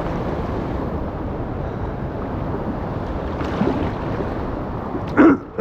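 Steady rush of river water with wind buffeting the microphone, and a short loud shout near the end.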